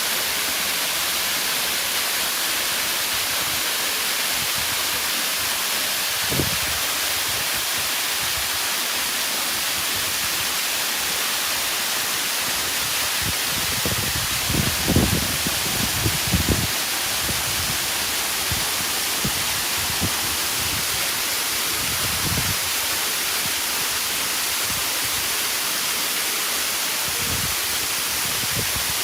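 Steady rushing of a waterfall on a mountain stream, an even hiss. A few brief low bumps come about halfway through.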